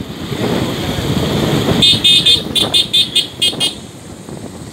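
A vehicle horn tooted in a quick series of about eight short beeps, over engine and road noise.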